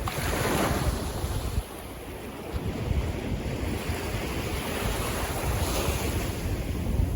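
Sea waves washing in, with wind buffeting the microphone. One wave surges loudly in the first second and a half and then falls away; the surf then runs on under gusty rumbles.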